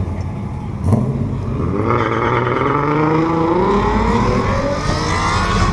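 Turbocharged 5.2 L Magnum V8 of a Dodge Ram pulling hard down a drag strip. A sharp thump about a second in is followed by an engine note that climbs steadily in pitch for several seconds.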